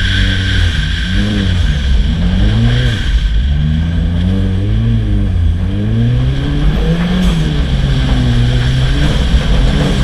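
Ford Fiesta ST rally car's turbocharged four-cylinder engine revving up and falling back again and again, the pitch rising and dropping every second or so as it is driven hard through a rallycross course.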